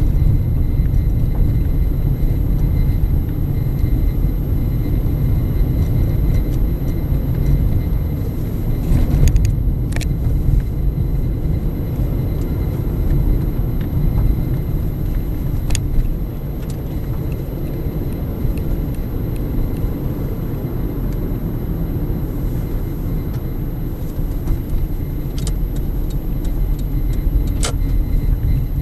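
Steady low rumble of a car driving, with a few sharp clicks or knocks scattered through it.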